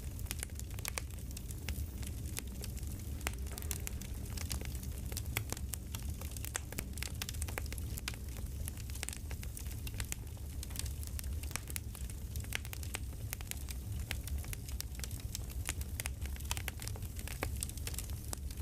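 Campfire crackling: a steady low rumble of burning under many small, irregular pops and snaps.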